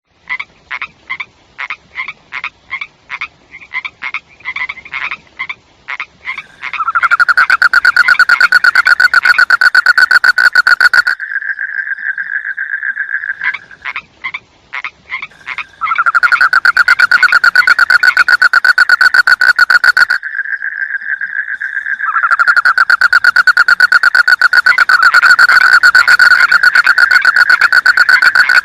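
Frogs croaking: for the first six seconds, separate pulsed croaks come about three a second. After that, a loud, fast, continuous chorus of rapid pulsing calls runs in long stretches, broken by short quieter pauses.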